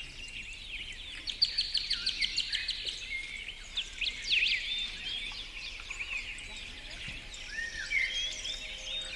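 Several forest birds singing and calling at once, with overlapping chirps and whistles and a fast rattling trill a second or so in.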